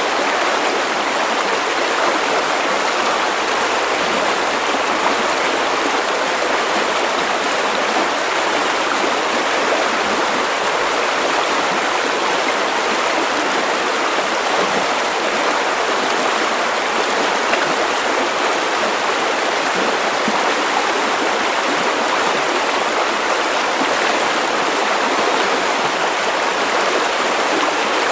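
River water running over stones, a steady, even rush of flowing water.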